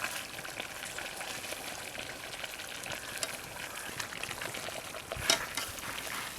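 Chicken masala frying in a pan, a steady sizzle and crackle as the whole chicken is stirred and turned through the gravy. One sharp knock about five seconds in.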